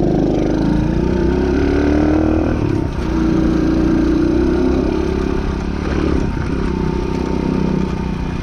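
110cc DB14 pit bike's single-cylinder four-stroke engine revving under throttle as it is ridden: the pitch climbs, drops briefly about three seconds in, then climbs again and holds.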